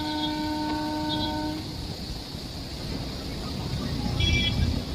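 A horn sounds one steady note for about a second and a half over the low rumble of moving traffic. A short, higher horn toot follows near the end.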